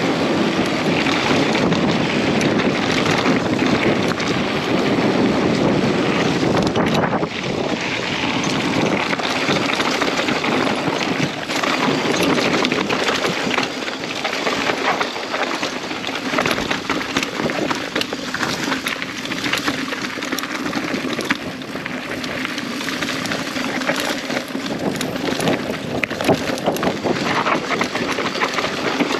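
Wind rushing over the microphone while a mountain bike is ridden down a dirt trail, with steady tyre noise and frequent clattering knocks from the bike over rough ground.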